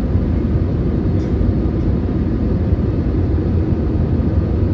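Steady low rumble of cabin noise inside an Airbus A320neo with CFM LEAP-1A engines, a mix of engine and airflow noise that holds even without any change in pitch.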